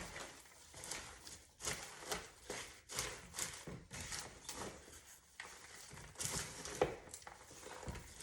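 A big spoon stirring popcorn coated in warm caramel in a large bowl: repeated rustling, scraping strokes, about one every second or so.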